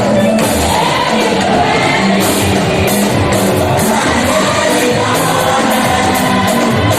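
Choir singing a gospel praise song over a band with drums, loud and steady, with the congregation joining in.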